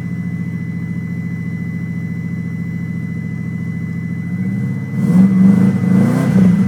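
1993 Subaru Impreza WRX's turbocharged flat-four idling steadily through a 3-inch downpipe, resonator and Megan Racing muffler after a cold start. It is then revved in a few short blips over the last two seconds, with a throaty rumble.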